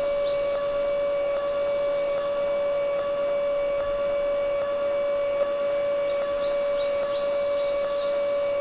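A small electric motor running with a steady, unchanging whine.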